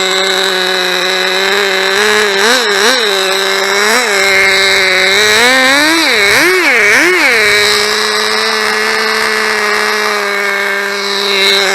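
Small glow-fuel (nitro) engine of a 1/16-scale RC car idling, its throttle blipped: two quick revs a couple of seconds in, another a little later, then a longer rev and three quick blips in a row before it settles back to a steady idle.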